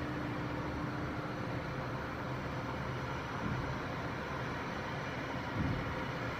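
Steady rumbling noise with no clear source. A faint hum fades out in the first second or so, and two soft thumps come about halfway through and near the end.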